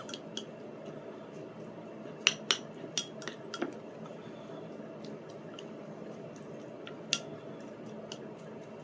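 A utensil clicking and clinking against a dish a few times while sushi vinegar is mixed into cooked sticky rice. The clicks are scattered: a cluster of several a little over two seconds in, and a single one near the end, over a steady low background hum.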